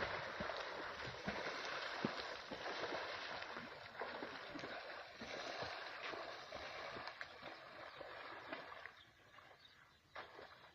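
Water splashing and rushing, fading away after about nine seconds, with one short splash or knock near the end.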